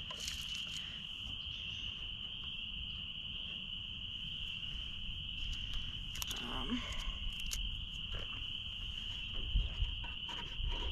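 Steady high-pitched trill of crickets or similar insects, with a few light clicks of handling about six to seven seconds in.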